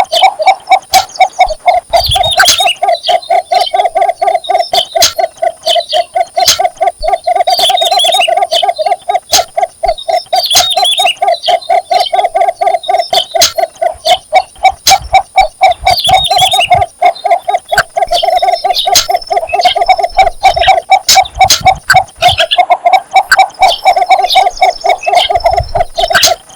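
Male cinnamon bittern giving its breeding advertising call: a long, rapid series of low, clucking notes repeated with only brief pauses, while other birds chirp higher up.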